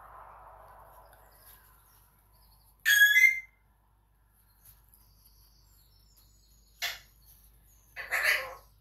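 Pet bird calling in the room: one loud call about three seconds in, then a short call and another call near the end.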